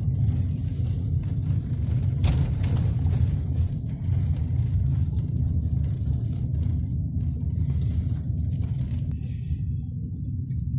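Car driving slowly on a snow-covered road, heard from inside the cabin: a steady low rumble of engine and tyres, with one brief knock about two seconds in.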